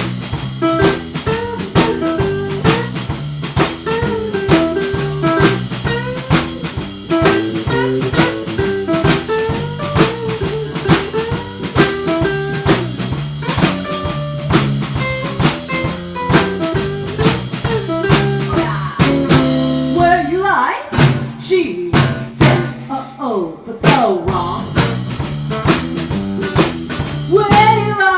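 Live blues-style band playing an instrumental passage: drum kit keeping a steady beat under a walking bass line and a lead melody. About two-thirds of the way through, the bass drops out for a few seconds, leaving the drums and bending, sliding lead lines, before the full band comes back in.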